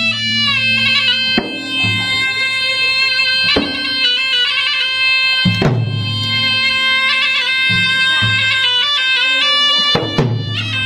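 Traditional Bugis-Makassar gendang music. A reedy shawm plays a high, ornamented melody with quick trills, and a few deep drum strokes fall under it.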